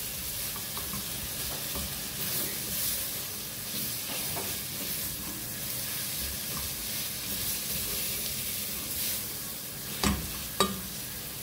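Shredded chicken and onion filling sizzling as it fries in a steel pot, with a silicone spatula stirring and scraping through it. Two sharp knocks near the end.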